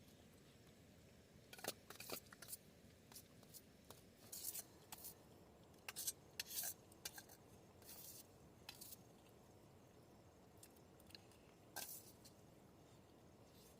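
Irregular small clicks and brief scraping, rustling handling noises, close and fairly quiet, thinning out near the end.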